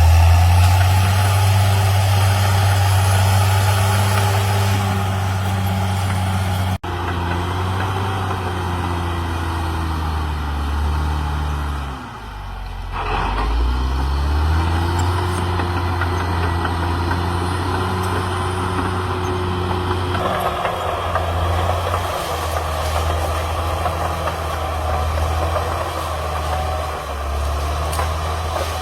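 CAT D6R XL bulldozer's diesel engine running steadily under load. About twelve seconds in, the engine speed drops briefly and then climbs back up.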